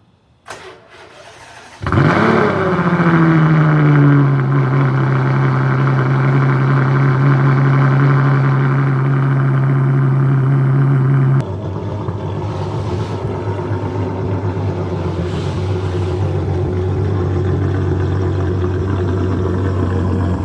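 Cold start of a Ferrari FF's naturally aspirated 6.3-litre V12 through a Novitec exhaust. The starter cranks for about a second before the engine catches with a rev flare, then holds a loud, high fast idle. About eleven seconds in, the idle steps down suddenly, quieter and lower, and it runs on steadily.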